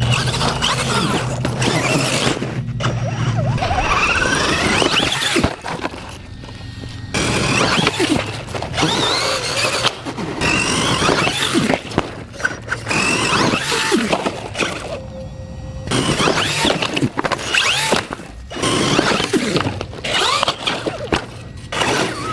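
Axial SMT10 RC monster truck's electric motor whining, rising and falling in pitch as it speeds up and slows, with tyre noise and sharp knocks from landings and hits, in quick successive bursts.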